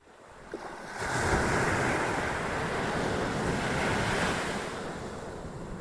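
Atlantic ocean surf: a wave breaking and rushing in. The rush swells over the first second, stays loud, then eases off near the end.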